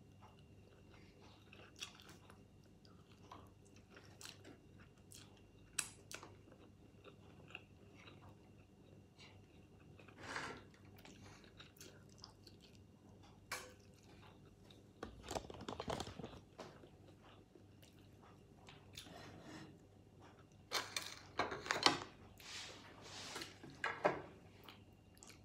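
A person eating crab and rice by hand: faint chewing and crunching, with scattered sharp clicks of shell. Louder bouts of crunching come about ten seconds in, again around fifteen seconds, and several times near the end.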